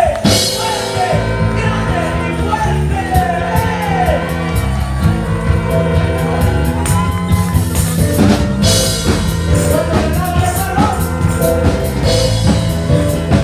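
Band playing rock-style music with a singing voice over drum kit and bass.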